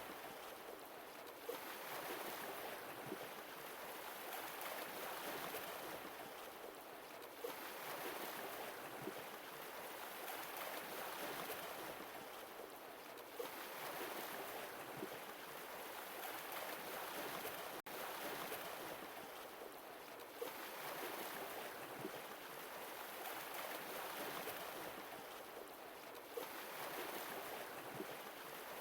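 Sea waves washing in and receding, a steady rush that swells and falls back about every six seconds. There is a brief gap in the sound about 18 seconds in.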